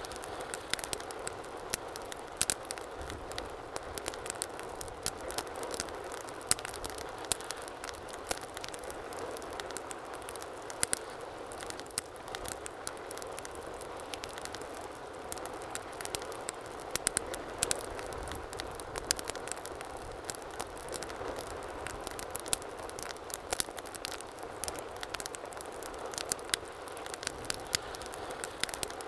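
Wood fire burning in a fireplace: a steady hiss of flames with frequent, irregular sharp pops and crackles of burning logs.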